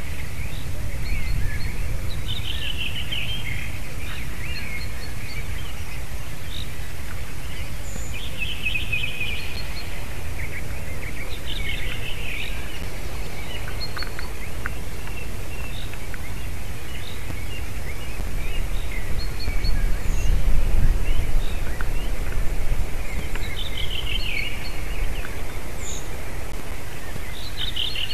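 Bird calls in short descending phrases, a few seconds apart, over a steady low outdoor rumble that swells about twenty seconds in.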